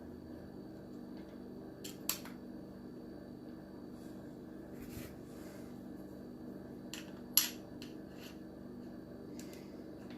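Metal parts of a chainsaw-chain carving disc and angle grinder clicking and clinking as the disc is handled and fitted onto the grinder. There are two sharp clicks, about two seconds in and about seven seconds in, with lighter ticks between, over a faint steady hum.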